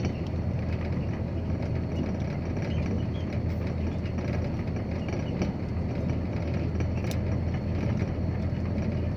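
Dump truck driving at a steady speed: a low, even engine drone with road noise, with a few faint rattles.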